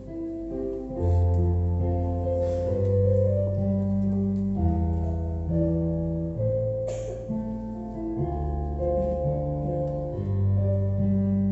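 Keyboard playing slow, held chords over a bass line as the instrumental introduction to a choir hymn. A short click comes about seven seconds in.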